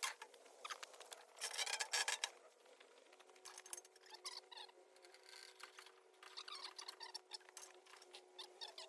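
Faint, irregular scraping, rubbing and clicking of a log being worked into position on a portable sawmill, in clusters about a second and a half in and again over the last couple of seconds.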